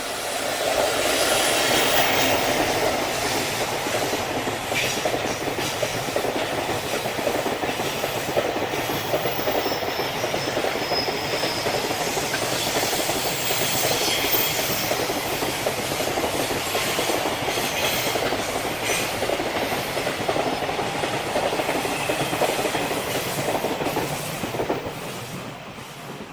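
A train passing close by, its wheels clattering over the rails. The sound builds in the first couple of seconds, holds steady for over twenty seconds, and fades away near the end.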